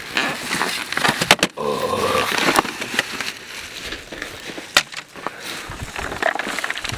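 Packing material being pulled out and handled while an engine is unboxed: crackling and rustling plastic and styrofoam, broken by several sharp clicks and knocks.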